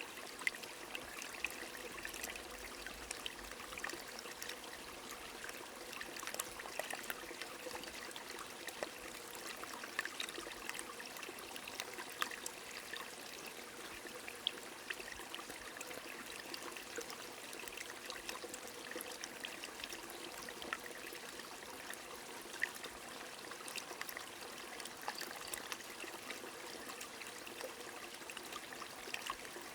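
A small stream trickling steadily under light rain, with many scattered sharp drip ticks.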